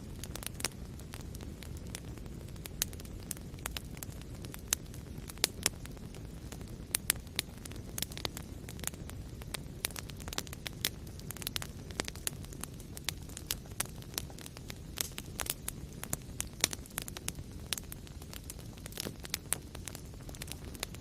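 Fire crackling in a fireplace: irregular sharp pops and snaps, several a second at times, over a steady low rumble of flame.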